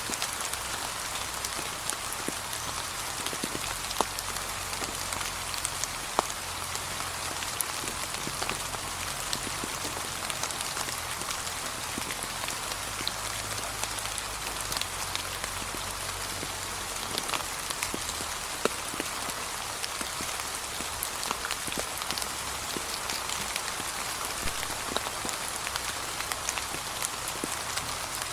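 Steady light rain falling, with many separate drops pattering and ticking.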